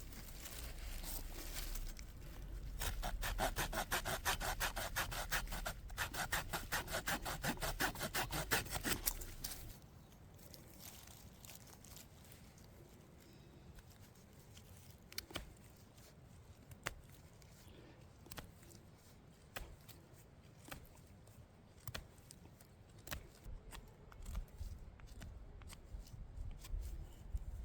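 A hand saw cutting through wood in quick, rhythmic back-and-forth strokes, stopping about a third of the way through. After that come only scattered light clicks and knocks.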